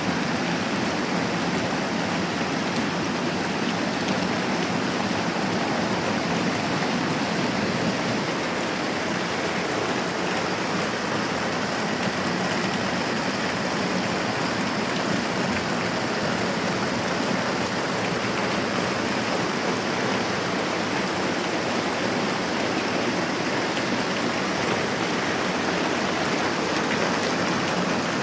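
Moderate rain falling steadily, an even unbroken hiss.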